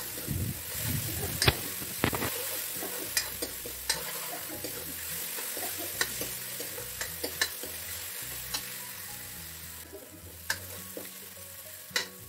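Onion and garlic paste frying in hot oil in a steel kadhai, sizzling steadily as a steel spoon stirs and scrapes through it. Sharp clicks of the spoon striking the pan come every second or so.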